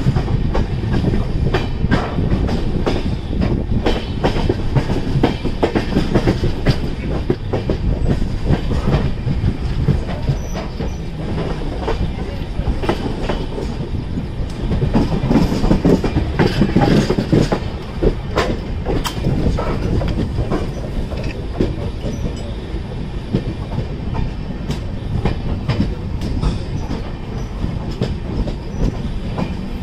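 Mumbai–Madgaon Konkan Kanya Express running, heard from the open doorway of a coach: a steady rumble of the wheels on the rails, with irregular clicks and clatter as the wheels pass over the track.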